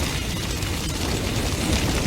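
Large bonfire burning hard: a steady low rumble of flames with dense, rapid crackling and popping of burning wood.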